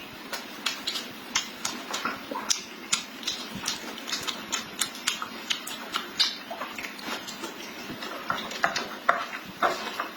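A person chewing a mouthful of pork belly, with many short wet smacks and clicks coming irregularly, several a second.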